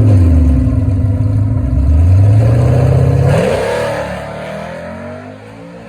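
Car engine revving hard: its pitch dips, climbs for about two seconds, jumps up sharply about three seconds in, then the sound fades away.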